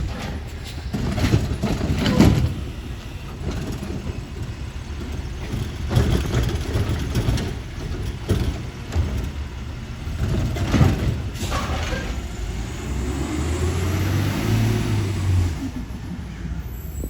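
Garbage truck's diesel engine running, with several loud clanks and bangs and the engine revving up near the end.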